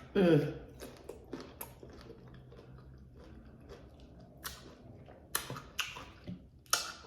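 Close-up chewing of a crunchy hard-shell tuna taco, with scattered crunches and mouth clicks, the loudest a few near the end. A short falling vocal sound comes right at the start.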